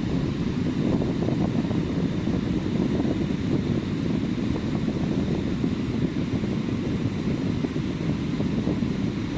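Wind buffeting the microphone as a steady low rumble over ocean surf on a beach.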